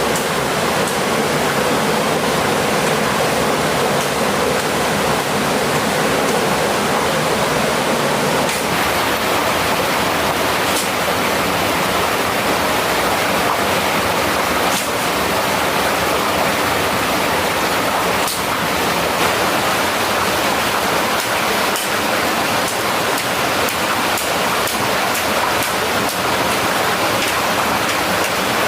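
Mountain stream water rushing steadily, with a few faint clicks now and then.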